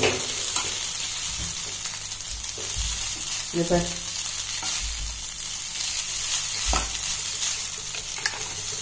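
Egg noodles and vegetables sizzling in a hot nonstick frying pan, with a steady frying hiss, while they are stir-fried and tossed with a wooden spatula and a spoon. A few soft thumps come from the food and utensils against the pan.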